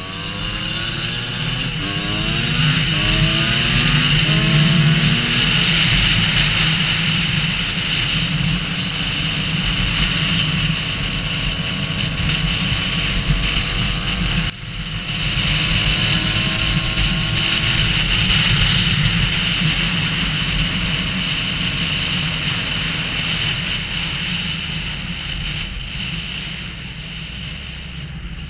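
Husqvarna WR250 two-stroke enduro motorcycle riding hard, engine pitch climbing and dropping back through several gear changes in the first few seconds. The engine then runs on at high revs, with a brief sudden drop about halfway through, and eases off near the end.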